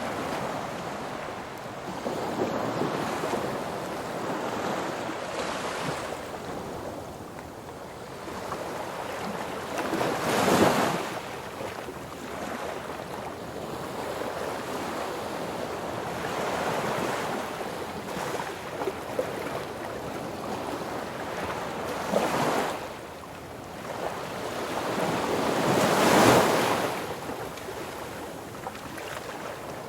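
Wind rushing over the microphone, a steady noisy rush that surges in strong gusts about ten seconds in, briefly again a little after twenty seconds, and most strongly near the end.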